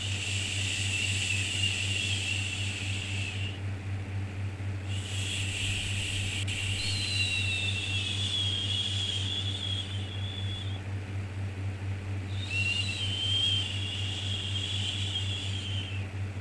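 Long 'shhh' shushing sounds for soothing a baby, three in a row, each several seconds long with a short pause between, over a steady low hum.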